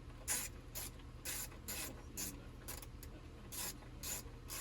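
A series of short scraping or rubbing strokes, about two a second and unevenly spaced.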